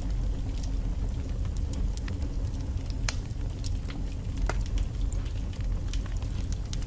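Logs burning in a fireplace: irregular sharp crackles and pops over a steady low rumble of the flames, with a louder pop about three seconds in.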